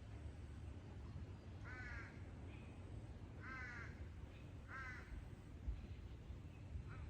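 A crow cawing: four short, harsh calls spaced a second or two apart, over a steady low rumble.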